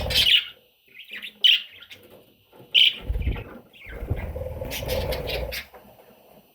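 Budgerigar chicks chirping in short high calls, with several bouts of low rustling in between. The loudest rustling comes in the second half.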